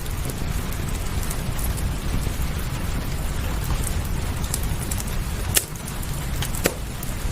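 Steady rain over a low rumble, with a fireplace crackling: scattered small ticks and two sharper pops in the second half.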